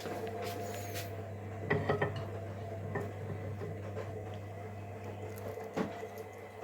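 Kitchenware clinking and knocking a few times, with a cluster of knocks about two seconds in and another near the end, over a steady low hum.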